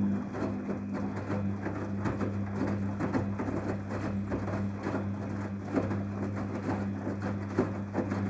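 Daewoo DWD-FT1013 washing machine running an air-bubble wash: a steady low hum under a constant irregular patter of splashing and bubbling water.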